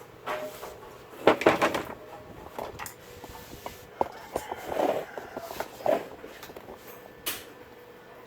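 Handling noises of work on a CRT television: a run of knocks, clicks and short scrapes, as of a plastic cabinet and tools being moved and set down, loudest in a cluster a little over a second in.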